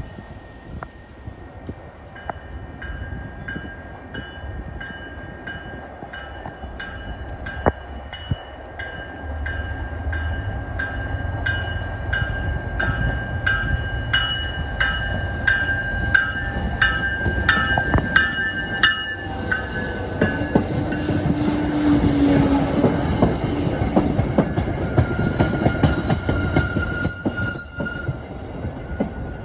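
Grade-crossing bell ringing with evenly repeated strokes while an MBTA commuter train's diesel locomotive rumbles in, louder from about nine seconds in. From about nineteen seconds the train passes close, its wheels clattering over the rails, with a high wheel squeal near the end.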